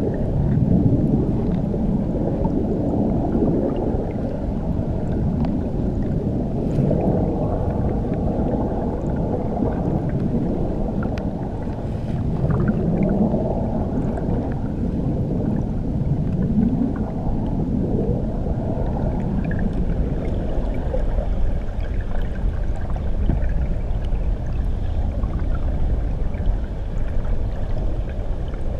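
Waterfall heard from under the water: a deep, muffled, steady rumble of churning water with slow swells that rise and fall.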